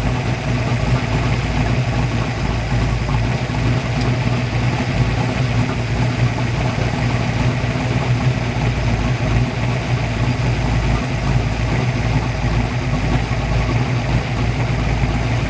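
Kiekhaefer 482-cubic-inch V8 race boat engine idling steadily while its ignition timing is being set.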